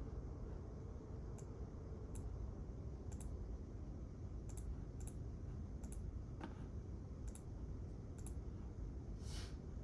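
Sparse, irregular light clicks, about ten in all, with a slightly longer click near the end, as someone types now and then on a keyboard. Underneath is a steady low hum of quiet room tone.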